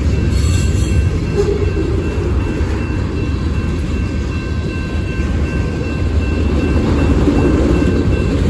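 Union Pacific freight train rolling past, a steady heavy rumble of cars on the rails with a faint, thin, steady squeal of wheels above it.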